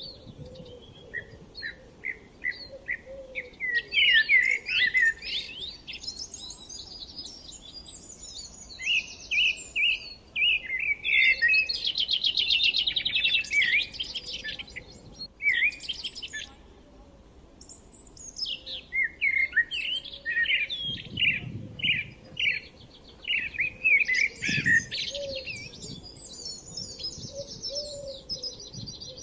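Forest songbirds chirping and singing: runs of short repeated chirps and fast trills from several birds, dropping to a brief lull partway through before picking up again.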